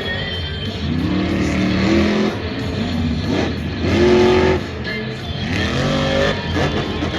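Monster truck's supercharged, alcohol-fuelled engine revving hard. It rises in pitch several times, loudest about four seconds in.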